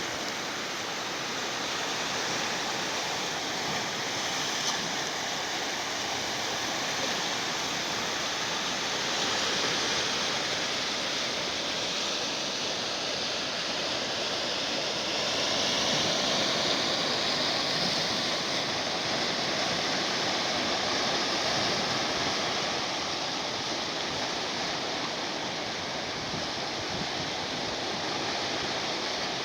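Sea surf washing onto the shore: a steady rush of water that swells a little about ten and sixteen seconds in.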